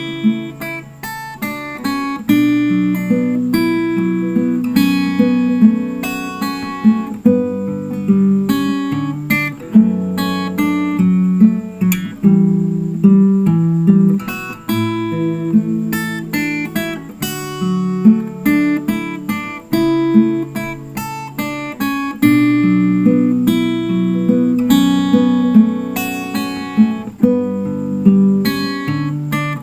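Acoustic guitar playing a song with plucked and strummed chords in a steady rhythm, with no singing.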